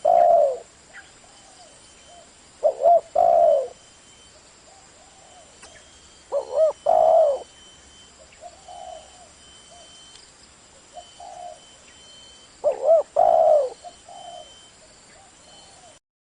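Spotted dove cooing: four loud multi-note coo phrases a few seconds apart, with fainter coos in between. The sound cuts off shortly before the end.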